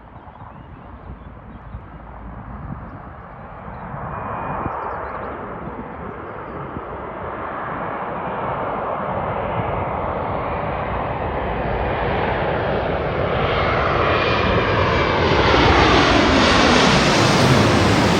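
Jet airliner's engines growing steadily louder as it approaches and passes close by, loudest near the end. Whining tones fall in pitch as it goes past.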